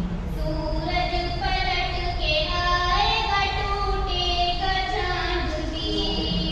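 A high-pitched solo voice singing a naat, an Urdu devotional hymn, in long held notes that glide between pitches.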